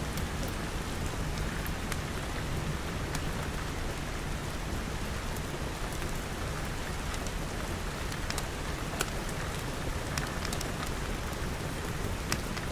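Steady rain pattering on glass, with scattered sharp crackles like a wood fire.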